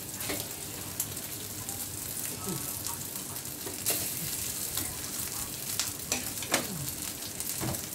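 Scrambled egg sizzling in a wok as cooked rice is scooped in with a plastic paddle, with a few sharp knocks scattered through.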